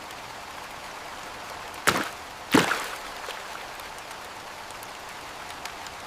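Steady hiss of rain, with two sharp knocks close together about two seconds in.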